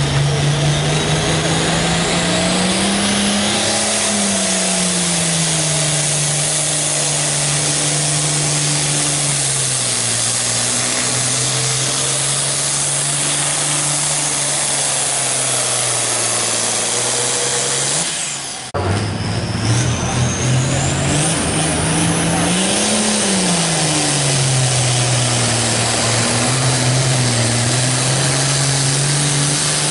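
Hot stock diesel pulling tractors at full throttle hauling the sled, the engine note rising and sagging as the load builds, with a high whistle climbing over it. The sound breaks off abruptly about two-thirds of the way through, then another full-throttle run takes over.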